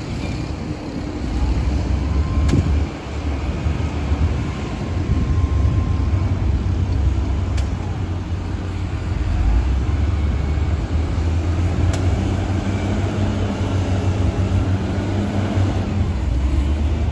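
Diesel engine of a Shantui DH17-C2 bulldozer running, a deep steady rumble that dips briefly about three seconds in.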